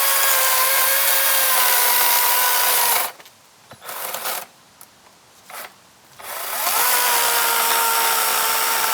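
Kobalt 24-volt cordless electric chainsaw cutting a dead log, its motor whine sagging slowly under load. It stops about three seconds in, gives two short bursts, then spins up again about seven seconds in and keeps cutting.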